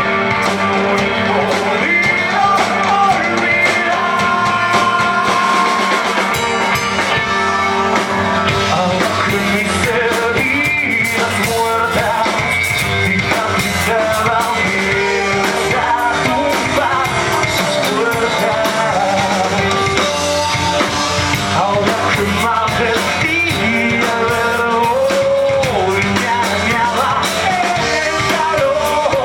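A rock band playing live, with sung vocals over distorted electric guitars, bass and drums.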